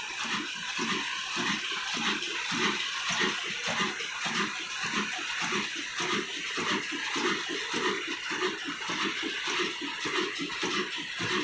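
Old Ruston Hornsby diesel engine running steadily, a regular chugging of about four beats a second with a hiss over it.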